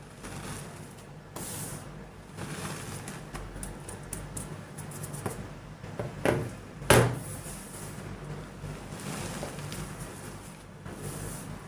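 Soft, buttery gym chalk being crumbled and crushed, a steady soft gritty crumbling, with two louder sharp cracks a little past the middle as pieces break.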